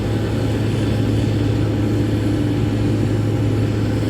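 Steady low engine drone with a constant hum, unchanging throughout, typical of vehicles running on an airport ramp during de-icing.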